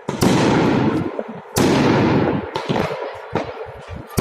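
Fireworks bursting: two loud bangs about a second and a half apart, each trailing off over about a second, then a string of smaller sharp cracks.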